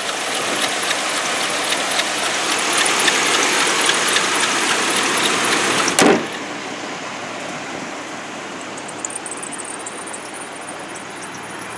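2006 Hummer H3's 3.5-litre inline-five engine idling with the hood open. About six seconds in the hood slams shut with one loud thud, and the engine sounds quieter after that.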